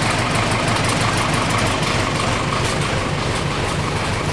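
Loader's engine idling steadily.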